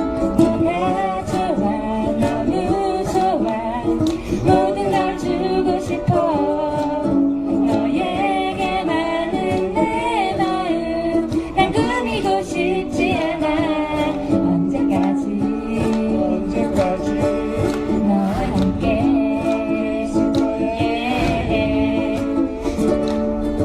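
Ukulele ensemble playing live, strummed chords under a plucked melody, as the song carries on past its last sung line.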